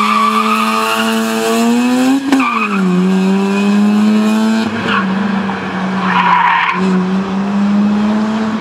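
Mazda RX-8's twin-rotor rotary engine running hard at high revs. Its pitch climbs, drops sharply about two seconds in, then holds steady, with short bursts of tyre squeal about five and six seconds in.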